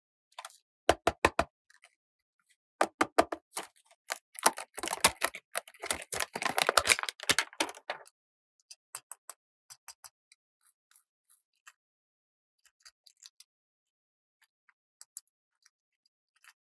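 Small plastic toy pieces being handled: a run of sharp clicks and taps, thickening into dense rattling and rustling about four to eight seconds in, then only scattered faint clicks.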